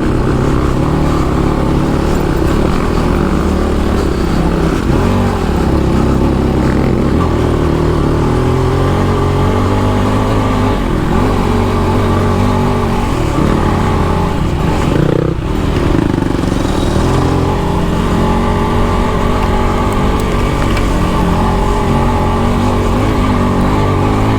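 Dirt bike engine running on the move, its pitch stepping up and down with throttle and gear changes, with a short drop in revs about fifteen seconds in.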